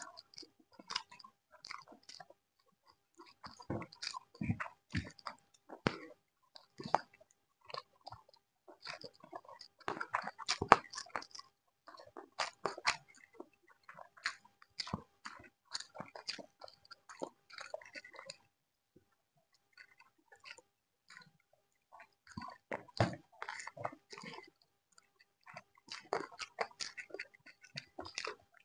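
People chewing and smacking their mouths while eating pulihora rice with chicken curry: irregular wet chewing, bites and lip clicks, with a lull of a few seconds after the middle.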